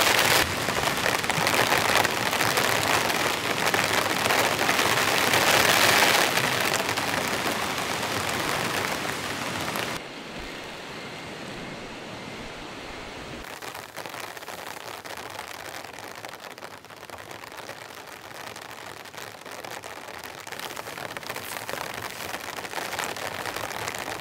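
Heavy rain falling in a steady hiss, loud at first, then abruptly quieter about ten seconds in, building slightly again near the end.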